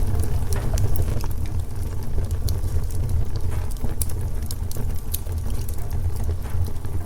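Fireplace wood fire burning with a steady low rumble and scattered sharp crackles and pops.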